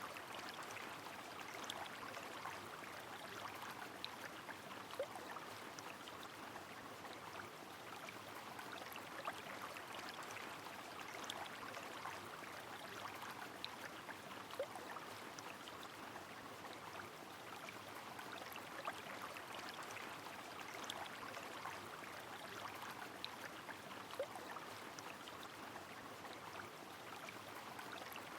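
Steady rain falling over a flowing river, an even watery hiss with occasional louder single drip ticks.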